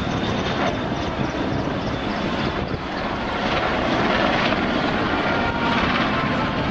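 Royal Navy Merlin helicopter in a display flypast: steady rotor and turbine noise.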